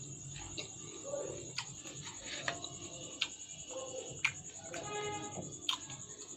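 Someone eating phuchka: scattered sharp crunches of the crisp puri shells and soft wet chewing at irregular moments.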